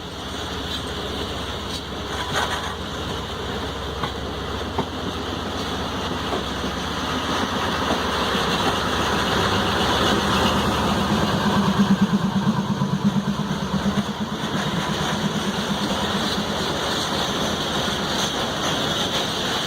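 Train running with steady rail and wheel noise, while a diesel locomotive's engine throb swells to a peak about twelve seconds in, then eases as it passes.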